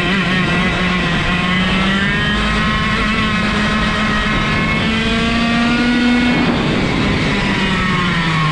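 125cc two-stroke go-kart engine running hard. Its pitch climbs steadily for about six seconds, then drops off about six and a half seconds in. The kart has no gearbox or clutch, so the engine note follows the kart's speed directly.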